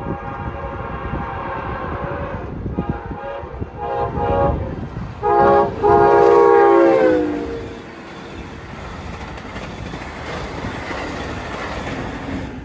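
Freight locomotive air horn sounding a series of blasts, the loudest a long one from about five seconds in whose pitch drops at its end as the locomotive passes. After it comes the steady rumble and clatter of the train's cars rolling by.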